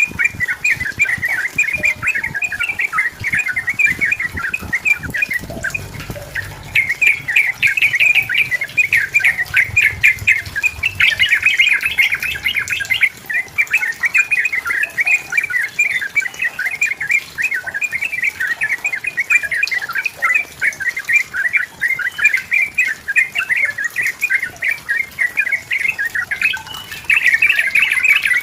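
Yellow-vented bulbul (trucukan) singing actively: a long, almost unbroken run of rapid, bubbling, chattering notes.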